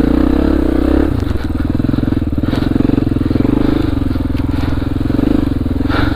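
Honda XR400R's air-cooled four-stroke single-cylinder engine running steadily, with a couple of light clicks.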